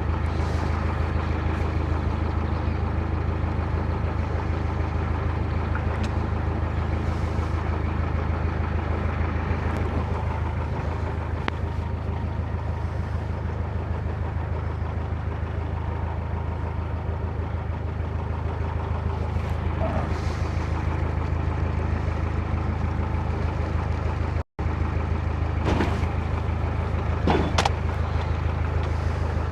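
Narrowboat diesel engine running steadily with a low, even hum. The sound drops out for an instant about three-quarters of the way through, and a few short knocks come near the end.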